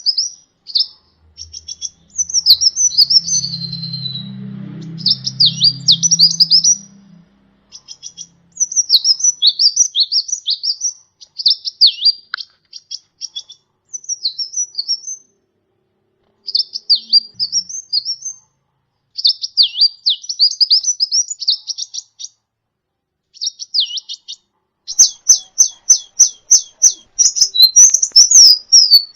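Sunbird (kolibri ninja) singing: rapid, high-pitched twittering phrases in bursts of a second or two, separated by short pauses. About 25 seconds in it breaks into a faster run of sharp repeated notes. A faint low hum sits under the first few seconds.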